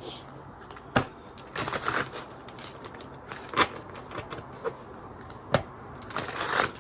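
Tarot cards being handled and shuffled: scattered sharp snaps and taps, with two longer riffling rustles, one about one and a half seconds in and one near the end.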